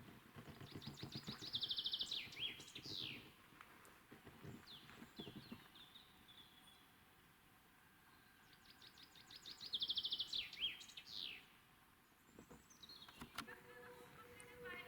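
A songbird singing the same short song twice, several seconds apart. Each song is a quick run of repeated high notes that grows louder and ends in a few falling notes, with fainter chirps in between.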